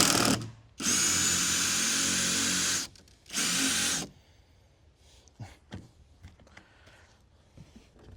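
Power drill backing out a deck screw still left in a board: a short burst, a steady run of about two seconds, then another short burst, followed by faint knocks.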